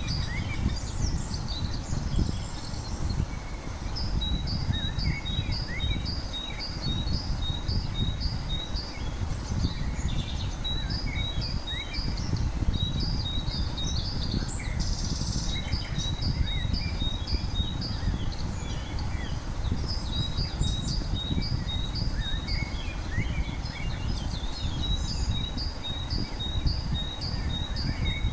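Birds chirping, one repeating a short two-note call about twice a second in runs of several seconds, with other scattered chirps, over a steady low rumble.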